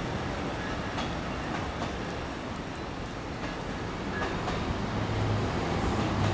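Double-stack freight train cars rolling past, a steady rumble of wheels on rail with a few faint clicks.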